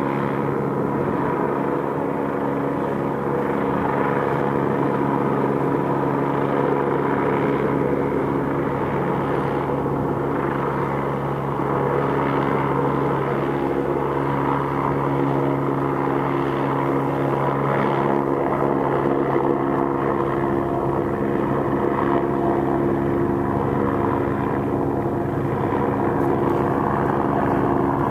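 Police helicopter flying low overhead, its rotor and turbine giving a steady drone with a set of constant tones.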